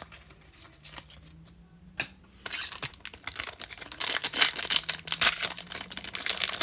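Foil wrapper of a trading-card pack being torn open and crinkled, starting about two and a half seconds in after a few light clicks of cards being handled.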